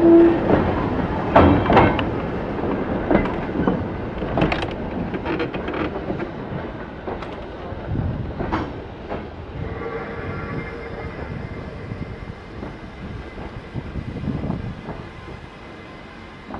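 Train running past, its wheels clicking and knocking over the rail joints, the sound fading steadily as it moves away.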